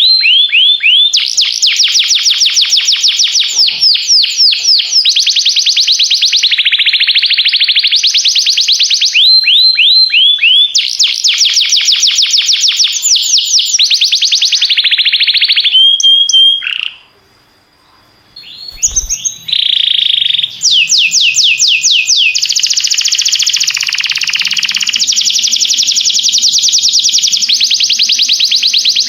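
Domestic canary singing loud, fast trills of rapidly repeated high notes, one trill running straight into the next, with a short pause a little past halfway.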